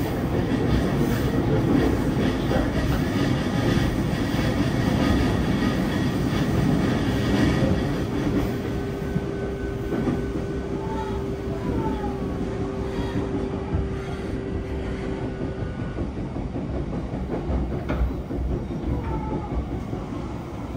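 Running noise inside a JR East E233-0 series electric train car with Mitsubishi IGBT-VVVF traction: a steady rumble of wheels on rail, with a steady hum through the middle and a few short falling whines. It gets a little quieter after about eight seconds.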